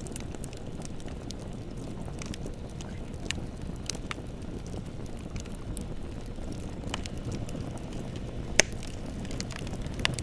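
Bonfire burning: a steady low rumble with scattered crackles and pops, and one sharp, louder pop about eight and a half seconds in.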